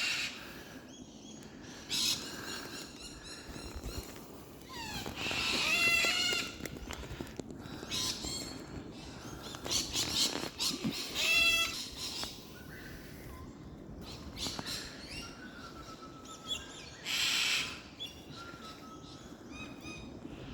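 Cockatoos calling repeatedly with harsh squawks and screeches, several separate calls spread through the stretch, some short and some longer. They are calling at a climber in their tree, whom they are angry at.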